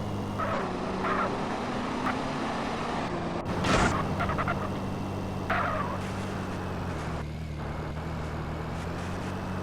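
Car engine running steadily at idle, with a short loud burst of noise about four seconds in.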